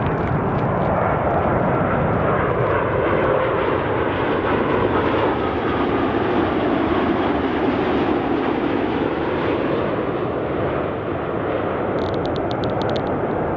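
Boeing 787-8 jet airliner passing low on its landing approach: a steady, loud jet roar whose pitch sweeps slowly downward as it goes by.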